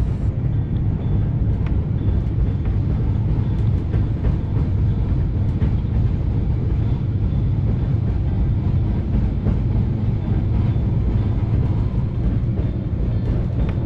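Narrow-gauge Matterhorn Gotthard Railway passenger train running: a steady low rumble of wheels on rails, with a few faint clicks and a faint high squeal now and then.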